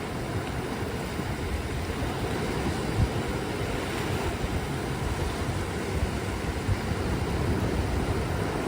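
Sea surf breaking and washing on a beach: a steady rushing noise, heaviest in the low end, with a couple of brief low thumps about three and seven seconds in.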